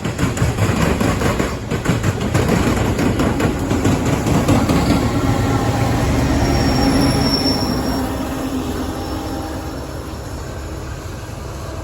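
Loaded Norfolk Southern coal train passing: wheels clatter over the rail joints, then a steady low drone with a brief high whine. The sound fades away from about eight seconds in as the end of the train moves off.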